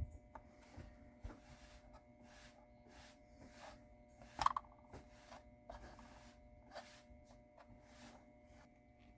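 Soft, even rubbing strokes on the wood of a mandolin being repaired, about two to three strokes a second, with one sharper knock about halfway through.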